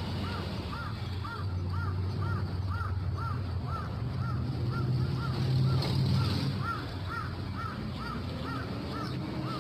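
A bird calling over and over with a short, arched note, about two and a half a second, at an even pace. A low steady hum runs underneath.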